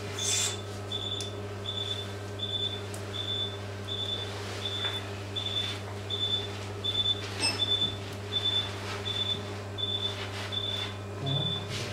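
Surgical patient monitor giving a short high beep about four times every three seconds, in time with the anaesthetised dog's pulse, over a steady low equipment hum. A brief click sounds about seven and a half seconds in.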